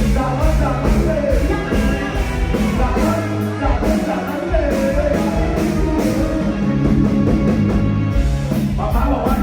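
Live band with a singer performing a rock-style song through the bar's amplification: sung vocals over a steady bass line and drums, loud and continuous.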